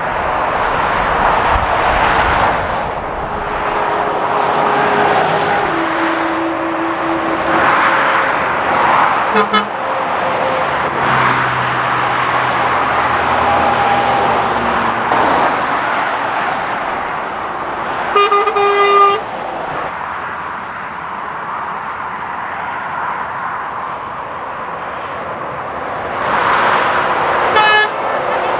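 Road traffic passing at speed on a dual carriageway, with lorries and cars going by one after another. About two-thirds of the way through a vehicle horn gives a toot lasting about a second, and a shorter toot follows near the end.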